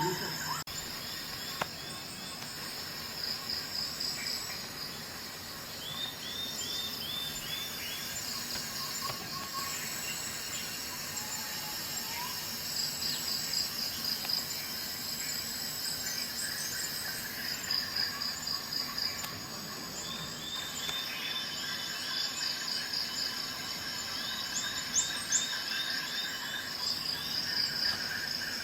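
Outdoor ambience of a steady chorus of insects trilling, with short runs of quick repeated chirps that come back several times.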